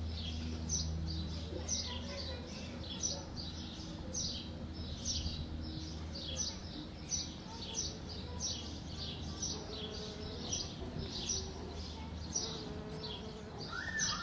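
A small bird repeating one short, high, falling chirp about one and a half times a second, over the low hum of a bumblebee's wings that is strongest in the first couple of seconds.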